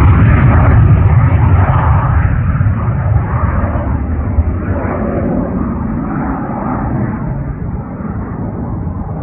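Twin turbofan engines of a Cessna CitationJet CJ3+ business jet, a loud jet rumble that steadily fades and dulls as the aircraft moves away.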